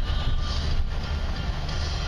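Steady low rumble of a vehicle on the move, with music playing faintly over it.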